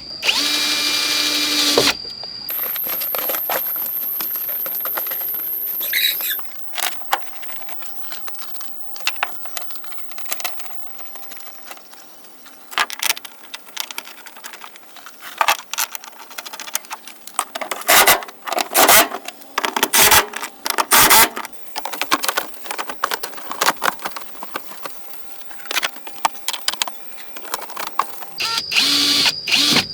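A power drill runs in short bursts near the start and again near the end. Between them come scattered sharp clicks and knocks of hand work, several louder ones close together about two-thirds of the way through.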